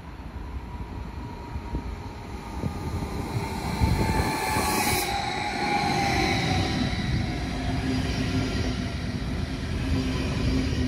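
SBB RABe 511 double-deck electric multiple unit running in alongside the platform, its wheel and track rumble growing louder over the first few seconds as it comes close. An electric whine falls in pitch as it slows, and a brief hiss cuts off suddenly about five seconds in.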